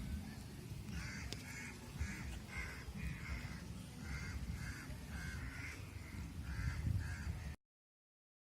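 Crows cawing over and over, about one or two short calls a second, above a low rumble. The sound cuts off suddenly about seven and a half seconds in.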